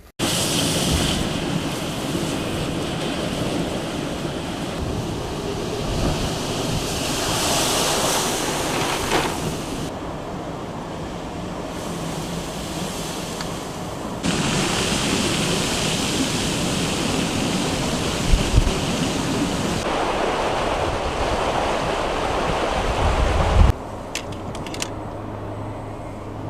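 Wind in a snowstorm rushing over the microphone: a loud, steady rush that shifts abruptly in level and tone several times, about 10, 14, 20 and 24 seconds in.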